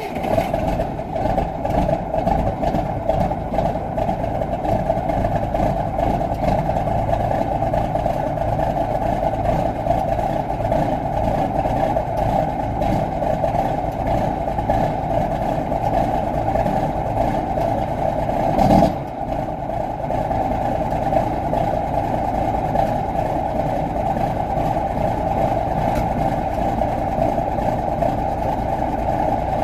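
Mack R-model truck's diesel engine idling steadily just after a cold start. There is one brief louder surge about nineteen seconds in.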